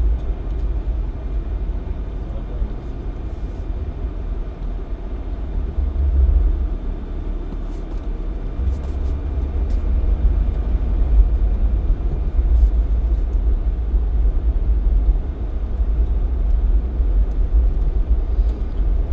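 Jeep Cherokee XJ on the move: a steady low rumble of engine and road noise.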